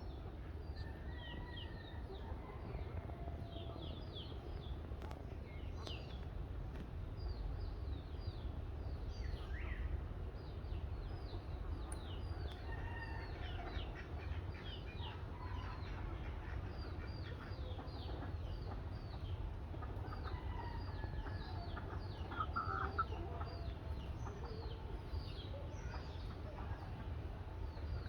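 Birds chirping over and over: many short, high, falling chirps, several a second, with a few lower calls mixed in, over a steady low rumble.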